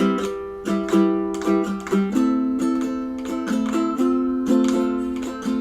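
Ukulele playing a bright intro theme tune: chords strummed and plucked in a steady rhythm, several strokes a second.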